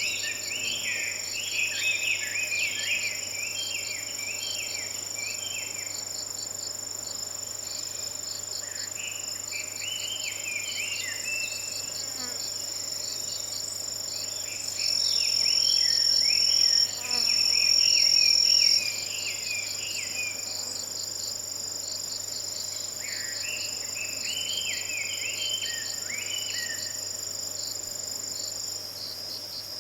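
Chinese hwamei singing bouts of loud, varied, rapid phrases, four times with pauses between. Underneath is a steady chorus of autumn insects, with continuous high trills and a pulsing chirp. About halfway through, a louder high insect trill sounds in two bursts of a couple of seconds each.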